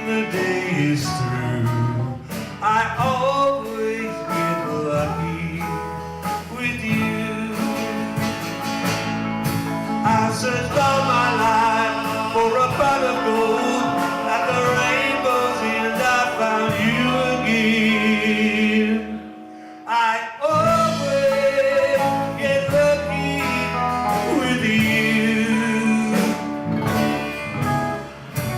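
Live country band playing, with guitars and singing, with a brief break about two-thirds of the way through before the band comes back in.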